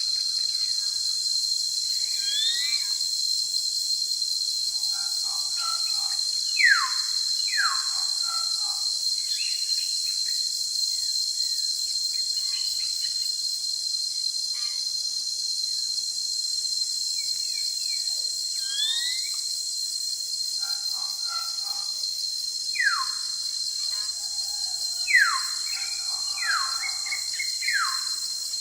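Forest ambience: a steady high-pitched insect drone with occasional bird calls over it, including sharp downward-sliding whistles that come in small groups about seven seconds in and again near the end.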